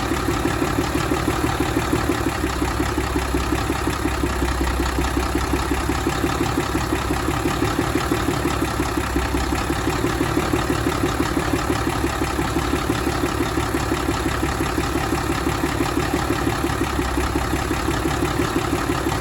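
Cummins L10 inline-six diesel engine idling steadily, with an even, fast firing pulse and no change in speed.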